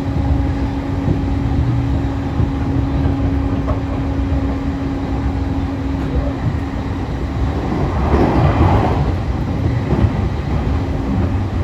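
Running sound inside a JR E531 series electric train with a Hitachi IGBT inverter, cruising between stations: steady rumble of wheels on rail with a constant motor hum. The hum drops out past the middle and returns near the end, and a louder rush of noise passes about 8 seconds in.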